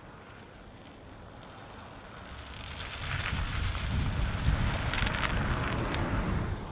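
A vehicle approaching on a slushy, icy road, the hiss of its tyres and a low rumble building from about halfway in and holding steady.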